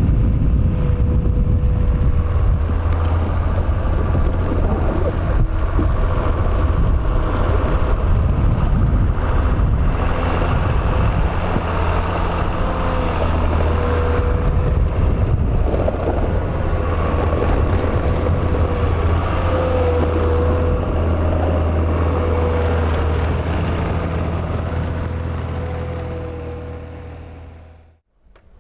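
Diesel locomotive engines running, a steady low drone with a wavering whine above it and wind noise on the microphone, fading away near the end.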